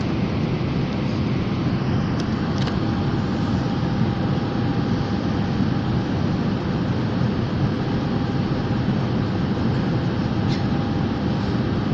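Steady drone of an airplane in flight heard from inside the cabin, a dense even rush of engine and airflow noise with a faint steady whine above it. A few faint ticks sound over it.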